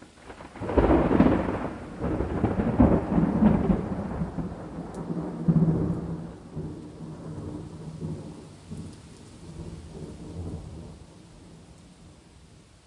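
A thunderclap breaks about a second in and rolls on in several loud peaks. It rumbles away and fades over the following seconds, over a faint steady patter of rain.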